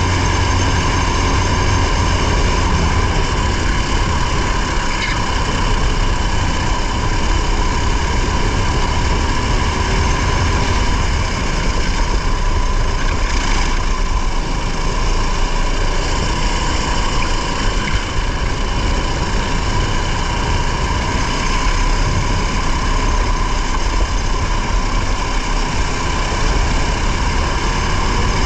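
Race car engine running continuously, heard from inside the car, with heavy low rumble and road noise; the engine note stays fairly steady, without big rises or falls in revs.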